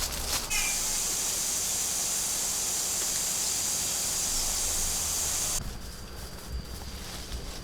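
A sharp knock, then a steady high hiss that cuts off suddenly after about five seconds.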